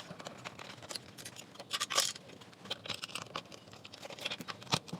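Scattered small clicks, scrapes and scratches from the plastic housing of a speaker being handled and pried open by hand, with a sharper click about two seconds in and another near the end.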